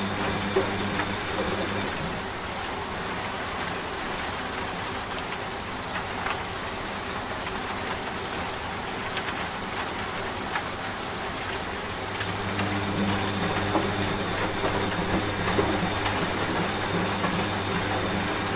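Steady rain falling with scattered drop ticks. Over it, a washing machine runs with a low, steady hum that fades out about two seconds in and comes back about two-thirds of the way through.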